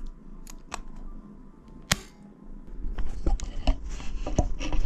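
Soft background music under the clicks and knocks of small gun parts being handled on a workbench. There is one sharp click about two seconds in, then louder rubbing and knocking from about three seconds.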